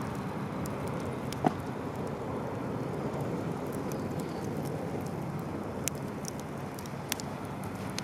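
Campfire burning with a steady rustling crackle and a few sharp pops, the loudest about a second and a half in.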